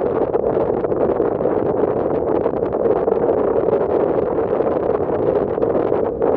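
Steady rushing drone of a passenger ferry under way, with its engines, water and air noise blended together, briefly dipping about six seconds in.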